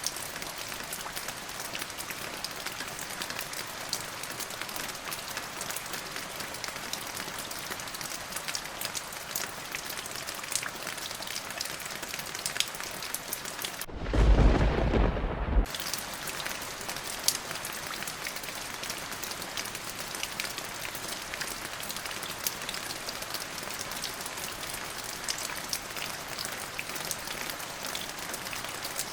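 Steady rain falling, with the patter of individual drops throughout. About halfway through, a single clap of thunder breaks in, deep and loud, and dies away within about two seconds.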